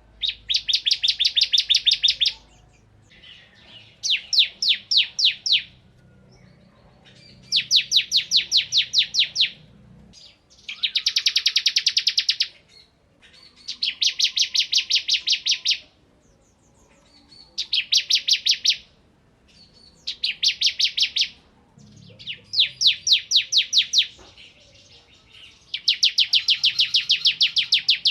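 Bar-winged prinia (ciblek) singing vigorously: about ten bursts of rapid, evenly repeated high notes, each lasting one to two seconds, with short pauses between them.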